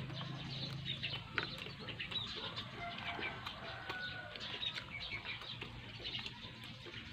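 Chickens clucking with small birds chirping: a scatter of short calls and ticks, with a few brief held chirps about three to four seconds in.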